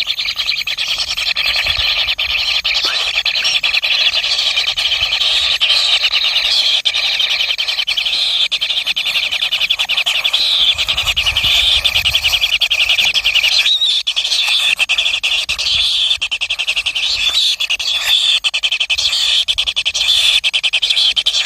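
Baby birds' begging calls at feeding: a steady, rapid chirping that goes on throughout.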